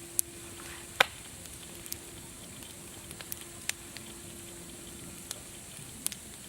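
Wood fire crackling: scattered sharp pops at irregular intervals, the loudest about a second in, over a steady high hiss.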